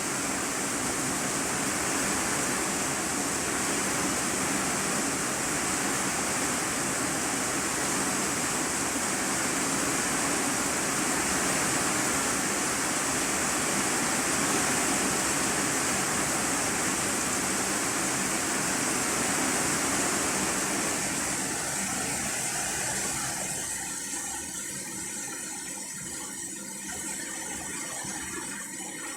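Heavy rain falling on an iron-sheet roof, heard from inside the room below as a steady hiss. About three-quarters of the way through it turns patchier and a little quieter.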